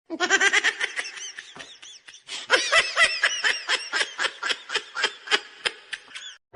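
Laughter: a long run of quick, high-pitched laughing pulses, about four a second.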